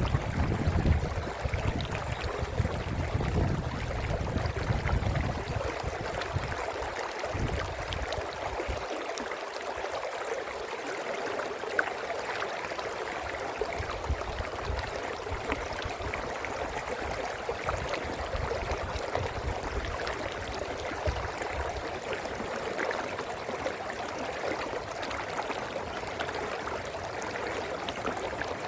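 Brook water running and gurgling steadily over stones. A low rumble underlies it for the first several seconds and dies away about seven seconds in.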